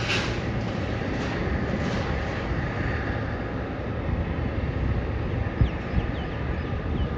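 Boeing 737 jet engines at takeoff power, a steady rumble as the airliner departs.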